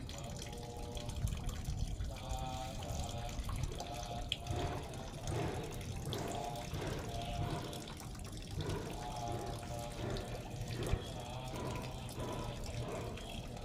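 Water running or splashing steadily, with short faint pitched sounds repeating over it.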